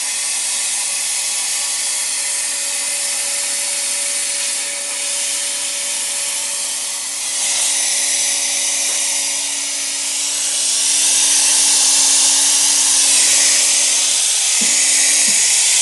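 Steady hiss of air from a cold gas-dynamic spray gun with the powder feed shut off, under a steady whine from the stepper-motor-driven carriage as it travels quickly to the next spot. The hiss grows louder about halfway and again later, and the whine stops near the end.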